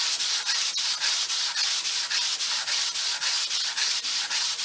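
Japanese water stone being lapped flat, rubbed back and forth on an old sanding belt on a table saw top: a steady gritty rasp that pulses several times a second. The lapping takes out the hollow that wears into the middle of the stone with sharpening.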